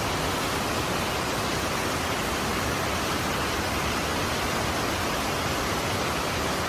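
Mountain stream rushing over rocks in a steady, even roar of water.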